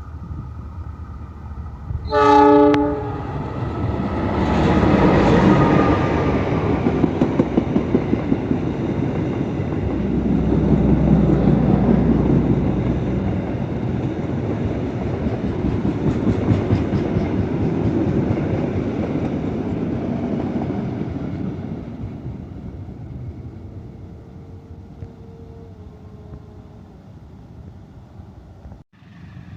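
A diesel locomotive's horn sounds one short blast, then the train passes close by: engine rumble and wheels clattering over rail joints in rapid clicks. It fades away after about twenty seconds.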